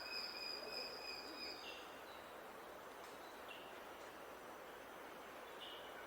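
Faint birdsong: a long, steady high whistled note that stops a little over a second and a half in, followed by a few short high notes, over a steady background hiss.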